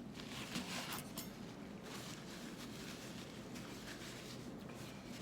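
Faint rustling and light handling noises, a few brief scratchy sounds in the first two seconds, over a steady low room hum.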